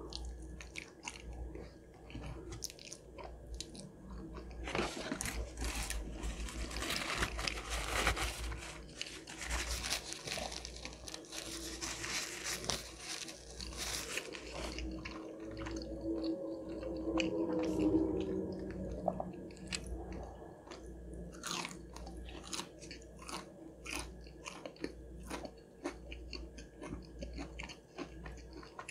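Close-miked chewing of a mouthful of creamy mac and cheese: wet, sticky mouth sounds and irregular soft clicks, busiest in the middle.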